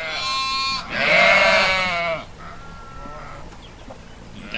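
Sheep bleating: a short bleat, then a longer, louder one, and a fainter third about two and a half seconds in.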